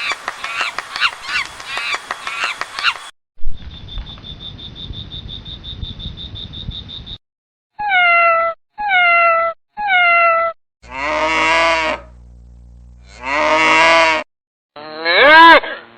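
A run of separate animal calls cut one after another: about three seconds of rapid chirping, a noisy stretch with a steady pulsing high tone, three short identical calls falling in pitch, two longer calls, and a loud arching call near the end.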